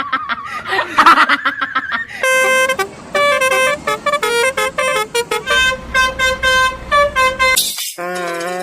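Multi-tone telolet bus horn playing a quick tune of short, steady notes that step up and down in pitch, starting about two seconds in. Before it comes a warbling, wavering tone, and a short burst of hiss comes near the end.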